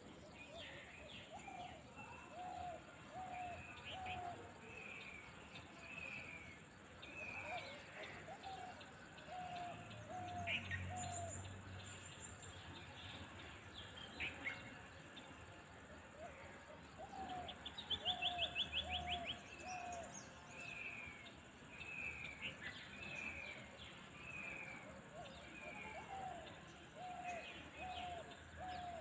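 Several wild birds calling across open fields, with short notes repeated in runs of three or four and a brief rapid trill about 18 seconds in.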